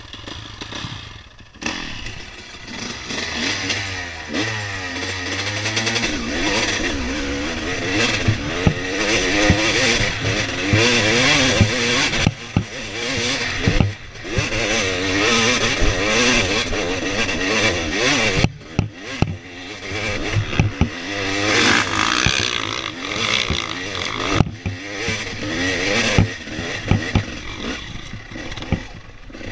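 Dirt bike engine revving up and down under load while riding a trail, its pitch rising and falling with the throttle, with clattering over the rough ground. The throttle comes off briefly twice, about two-thirds of the way through and again a few seconds later.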